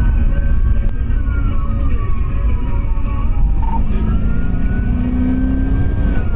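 Police siren wailing in slow sweeps, rising and falling twice, over the steady low rumble of a car engine and road noise during a high-speed chase.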